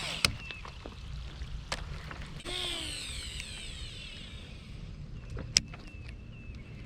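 Fishing reel spool whirring and falling in pitch as a lure is cast out, the loudest cast about two and a half seconds in, with a few sharp clicks.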